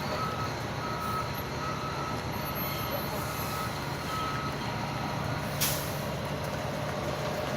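Wheel loader's diesel engine running steadily, its reversing alarm beeping in a regular on-off pattern until about four seconds in. A single sharp knock comes about a second and a half later.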